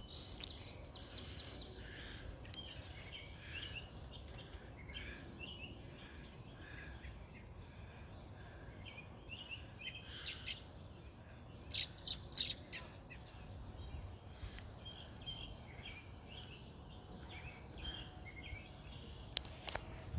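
Small birds chirping over and over in short, high chirps, with a few louder, sharper sounds about halfway through.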